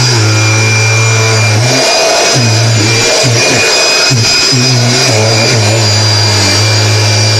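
Kirby vacuum cleaner running, with a steady high motor whine and a lower hum that breaks off and returns several times as the cleaner is worked over upholstery.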